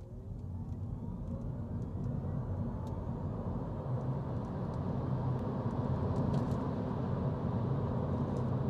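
Mini Cooper SE electric drive motor under full acceleration from standstill: a faint whine rising in pitch over the first few seconds, under road and wind noise that builds steadily as speed climbs.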